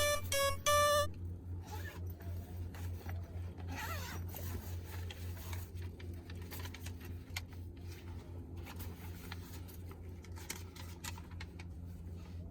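A short musical phrase ends about a second in. Then comes faint, irregular rustling and clicking, like gear being handled, over a steady low hum.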